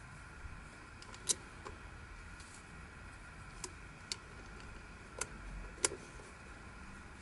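Plastic pieces of a Yileng Fisher Wheel of Time twisty puzzle clicking as they are handled and fitted, five sharp clicks spread over a few seconds against a faint steady hum.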